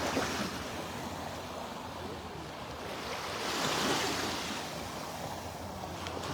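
Surf washing up on a sandy beach, one wave breaking and rushing in more loudly about halfway through, with light wind on the microphone.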